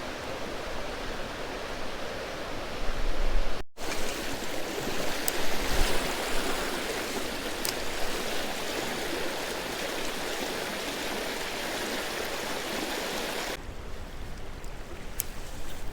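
Creek water running steadily over the stream bed, broken by a sudden cut about four seconds in and a change in the sound near the end. A few short clicks are heard over it.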